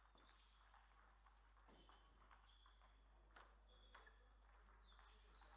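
Faint, scattered clicks of a celluloid table-tennis ball striking the table and bats, a few per second at most, with short high squeaks of shoes on the hall floor between them.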